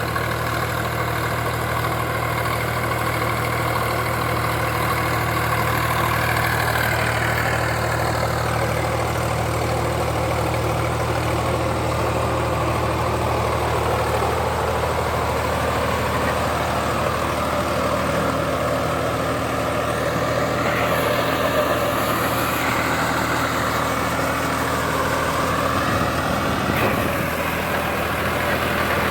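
Sonalika DI 42 RX tractor's diesel engine running steadily.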